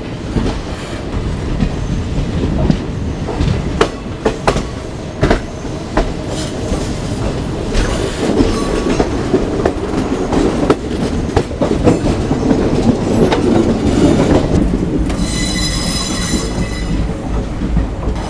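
Passenger express train running on rails: steady rumble with repeated clicks and knocks of wheels over rail joints, and a high-pitched wheel squeal lasting about two seconds near the end.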